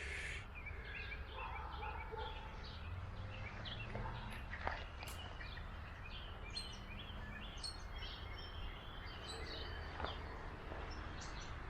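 Birds chirping: many short calls scattered throughout, over a steady low background rumble.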